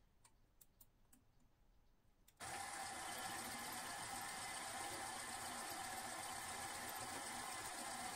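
A few faint clicks, then about two and a half seconds in a steady whirring machine noise starts abruptly and keeps running evenly: a motor-driven workshop machine running.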